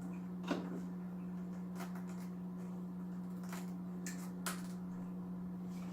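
A few light clicks and scrapes of plastic filter parts being handled while a glass UV bulb is pressed, with difficulty, into its socket in the canister filter, over a steady low hum.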